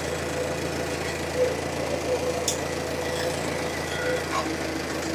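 1954 Ford NAA tractor's four-cylinder gasoline engine running steadily at low speed as the tractor drives in first gear, with a few light knocks over the top.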